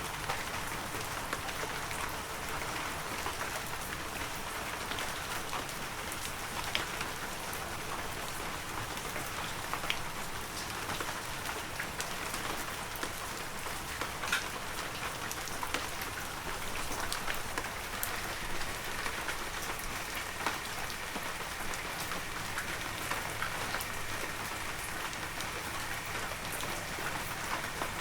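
Heavy rain falling steadily in a forest: a dense, even hiss with scattered louder drops striking close by.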